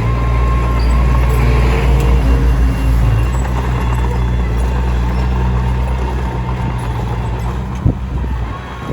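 Komatsu D21P bulldozer's diesel engine running steadily, with a faint high whine above it and one sharp knock about eight seconds in.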